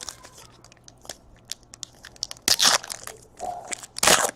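Crinkling and crackling of trading-card pack wrappers and cards being handled, with two louder crunching rushes about two and a half and four seconds in.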